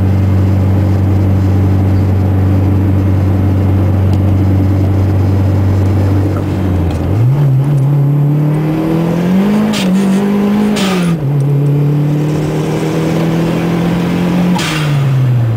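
1991 Honda Accord coupe's turbocharged, intercooled four-cylinder engine running at a steady speed, then revving up about seven seconds in and holding higher revs. It drops back a few seconds later and falls away near the end. Short hissing bursts come as the revs drop.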